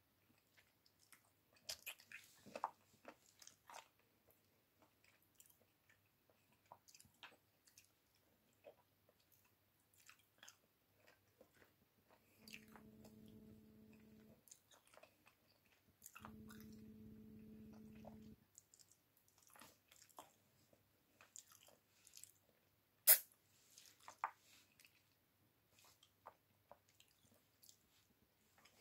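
Close mouth sounds of a person chewing chicken held in the fingers, with many soft wet clicks and smacks. A steady low hum comes in twice around the middle, about two seconds each time, and one sharp click stands out near the end.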